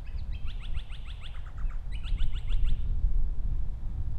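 A songbird sings two quick phrases of rapid, downward-sweeping high notes. The first lasts about a second and a half; the second is shorter and starts about two seconds in. Under it runs a steady low rumble of wind on the microphone.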